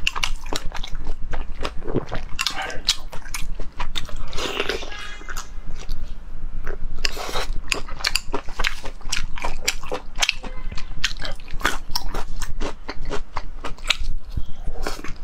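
Close-miked eating sounds: wet chewing and smacking of a mouth working on glossy braised meat, a dense run of irregular sharp clicks.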